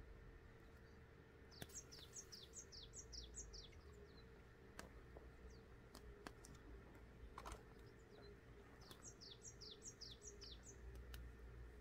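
A songbird singing twice, each phrase a quick run of high chirps that each fall in pitch, lasting about two seconds; the phrases come about seven seconds apart. A few faint sharp clicks are scattered between them.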